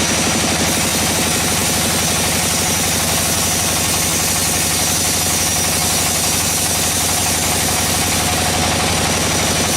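A sawmill's engine running steadily with a fast, even pulsing, over a constant hiss.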